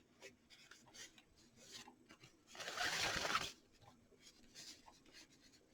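Ribbon being wrapped around a craft ring by hand: faint scattered rustles and small scratchy ticks, with one louder rustle lasting about a second, about two and a half seconds in.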